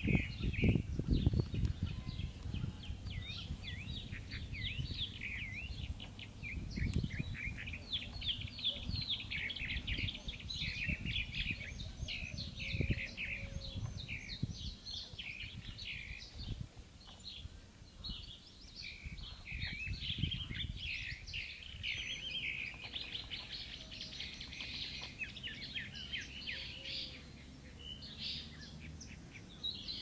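Small songbirds singing continuously, a dense chorus of quick chirps and trills, over a low rumble that is strongest in the first couple of seconds.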